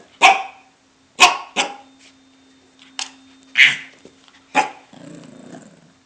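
A puppy barking: six short, sharp barks at uneven spacing, then a low growl near the end.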